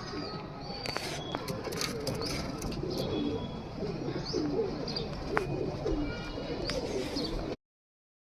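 Pigeons cooing, repeated wavering low calls, with a few higher chirps and sharp clicks mixed in. The sound cuts off suddenly near the end.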